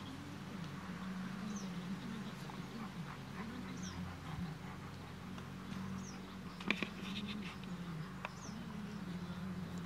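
A bird repeating a short, high, falling call about every two seconds over a low wavering hum, with a few sharp clicks about two-thirds of the way through.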